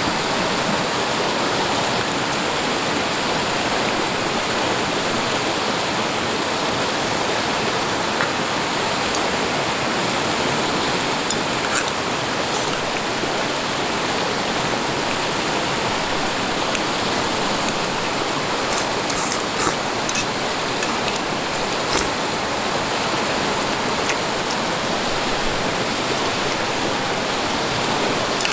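River water flowing with a steady rushing sound, with a few brief sharp clicks here and there.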